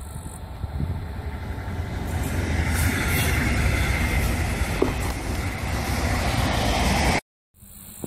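Double-deck regional train passing on the track: rumble of wheels on rail and rushing hiss, swelling as it nears and staying loud for several seconds. The sound cuts off abruptly about seven seconds in.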